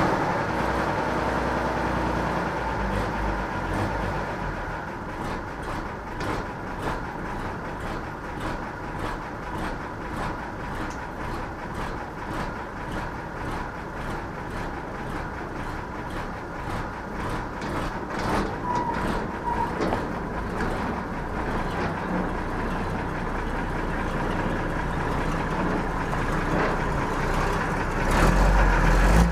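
Unimog 406's OM352 straight-six diesel running just after a cold start following months unused, with a rapid diesel clatter. It gets louder near the end.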